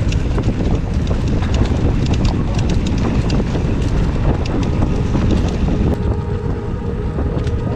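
Mountain bike on a rough dirt trail: heavy wind buffeting on the action-camera microphone over tyre rumble, with many sharp clicks and knocks as the bike clatters over the ground.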